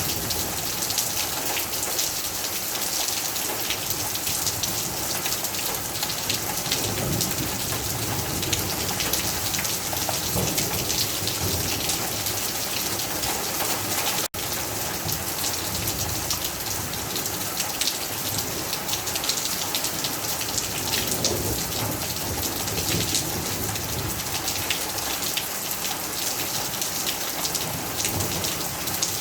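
Heavy rain falling steadily on hard surfaces, with many separate drop hits, and low thunder rumbling in a few swells during a thunderstorm. The sound drops out for an instant about halfway through.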